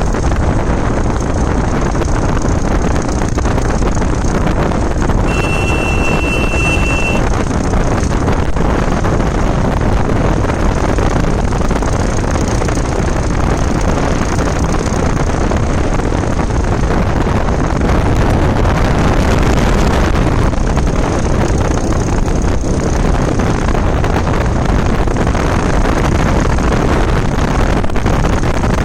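Wind rushing over the microphone and road noise on a moving motorbike, steady and loud throughout. About five seconds in, a single high steady tone sounds for about two seconds.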